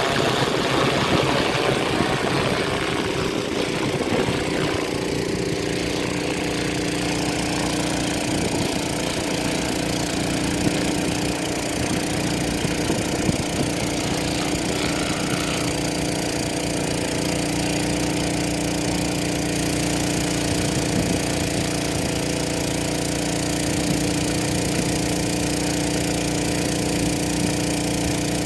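Agricultural spraying drone's rotors running with a steady hum, its pitch sliding up and down in the first few seconds before settling.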